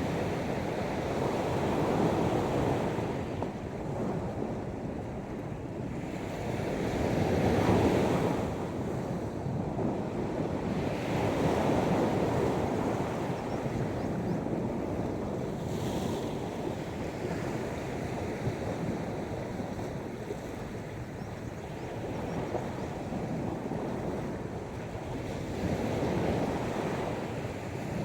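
Sea waves breaking on the shore, swelling and fading every few seconds.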